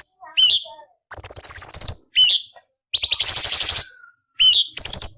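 Orange-bellied leafbird singing a run of short phrases with brief pauses between them, mixing clear rising and falling whistled notes with harsh, rasping bursts.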